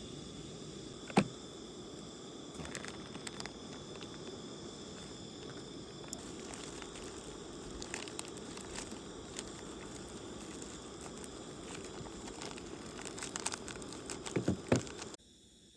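Firewood burning in a campfire, crackling with scattered sharp pops over a steady hiss: one loud pop about a second in and a cluster of pops near the end, after which it cuts off suddenly.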